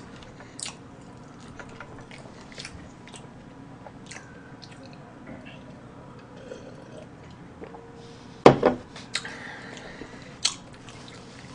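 A person chewing chocolate cake close to the microphone, with scattered small clicks and taps. A sharp knock comes about eight and a half seconds in, the loudest sound, and a smaller one around ten and a half seconds.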